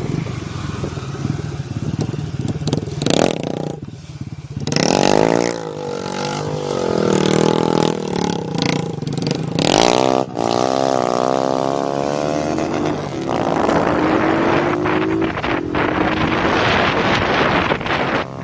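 Motorcycles with straight-pipe open exhausts riding in a group, their engines revving up and dropping back in pitch several times through the middle, then holding a steadier, slowly rising note. Wind noise runs underneath throughout.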